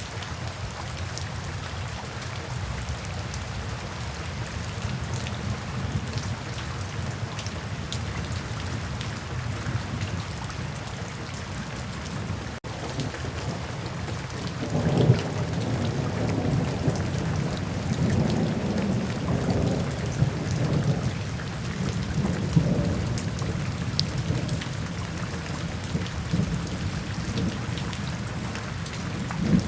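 Steady rain falling, with scattered drop taps. About halfway through, a roll of thunder starts with a sharp peak and goes on rumbling in waves for more than ten seconds.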